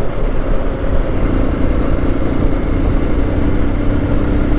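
Motorcycle on the move at steady speed: a constant rush of wind and road noise over the engine, with a faint steady engine hum coming through after about a second.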